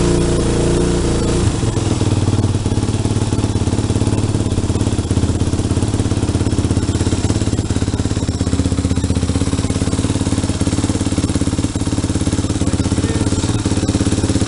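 Kawasaki KX450F's single-cylinder four-stroke engine running, dropping from slightly raised revs to a steady idle about a second and a half in.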